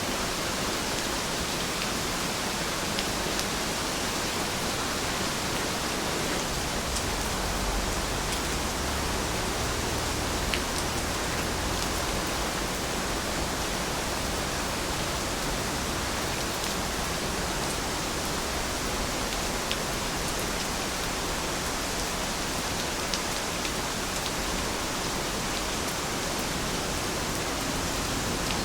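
Steady rainfall: an even hiss with scattered faint drop ticks.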